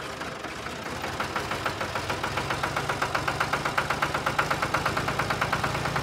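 Tractor-style diesel engine chugging at a steady rhythm of rapid, even knocks, with a low hum coming in about two seconds in.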